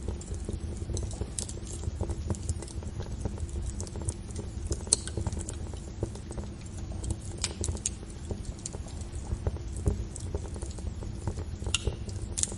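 Fire crackling: a steady low rumble of burning with many small pops and snaps at irregular intervals, and a few louder snaps.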